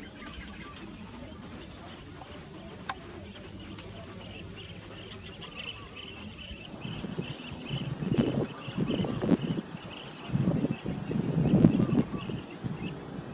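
Steady high-pitched insect buzzing with rapid repeated chirping, like crickets or cicadas. From about halfway through, loud irregular low rumbles come in.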